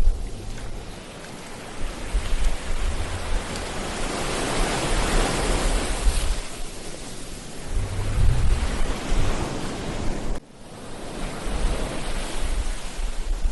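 Ocean waves breaking and washing up the beach: a wave swells and crashes about five seconds in, and the surf drops off sharply near the end before building again. Low rumbling gusts of wind on the microphone come and go under it.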